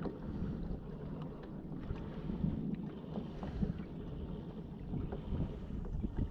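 Wind rumbling on the microphone, with water lapping against a kayak's hull and small knocks.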